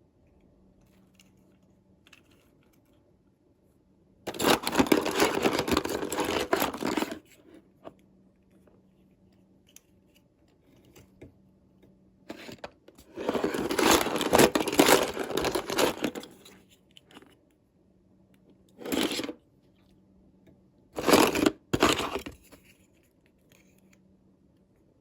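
Packaging being torn open by hand: a long stretch of ripping about four seconds in, another longer one from about thirteen to sixteen seconds, and a few short rips later on.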